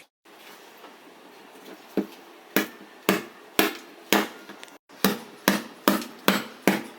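Hammer blows on metal and wood, about two strikes a second after a quiet start, coming a little quicker toward the end.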